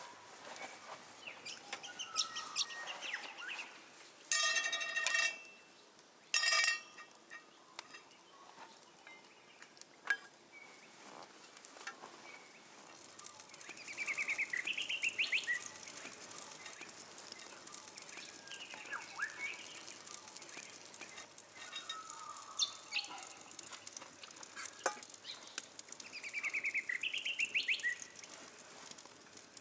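Wild birds calling on and off: a rapid run of chirping notes comes back several times, and two loud, harsh squawks come about four and six seconds in. Scattered light clicks and crackles sound between the calls.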